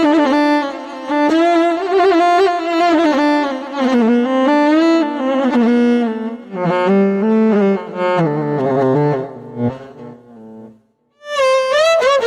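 Korg Triton keyboard playing a bowed-string folk voice: a single ornamented melody with sliding pitch. The melody drops to a lower register in the middle, stops briefly about a second before the end, then comes back in higher.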